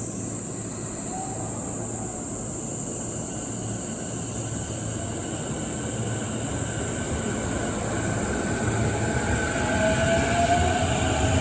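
Cicadas droning steadily in one high, shrill band. Under them a train approaches: a growing rumble with a rising motor whine that gets louder toward the end.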